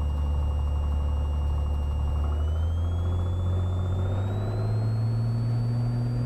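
Cessna 182T's six-cylinder Lycoming engine and propeller, heard from the cockpit, running at low power, then rising in pitch from about two seconds in as the throttle is brought up to full power for the takeoff roll.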